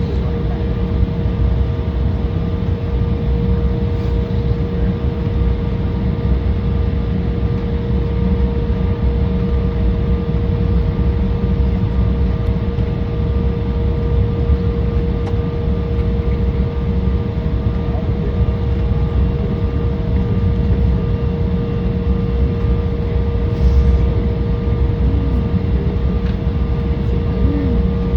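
Embraer 175's GE CF34 turbofan engines heard from inside the passenger cabin: a steady, loud low rumble with a steady whine over it.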